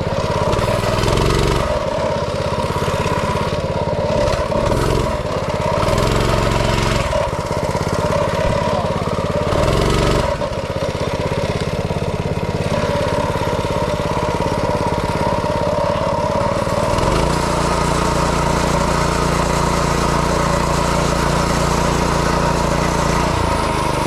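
Small engine of a yard go-kart or mini bike running under riding, the throttle opened and closed repeatedly through the first ten seconds or so, then held steady at higher revs for several seconds before dropping off near the end.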